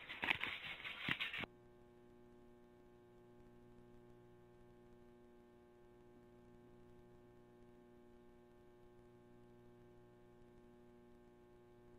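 Steady electrical hum, a low buzz with a stack of evenly spaced tones, after a loud stretch of noisy rattling with clicks that cuts off abruptly about a second and a half in.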